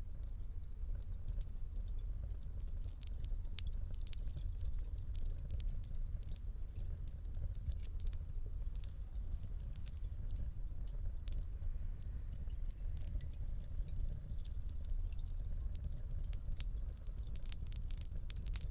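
Fireplace fire crackling, with many small irregular pops and snaps over a low, steady rumble of flame.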